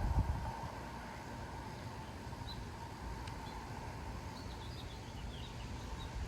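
Wind buffeting the microphone in a low rumble, hardest right at the start, with a series of short, high bird chirps in the second half.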